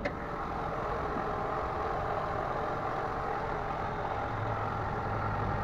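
Toyota Camry ACV30's four-cylinder engine idling steadily after an engine overhaul, with a low hum growing stronger about four seconds in.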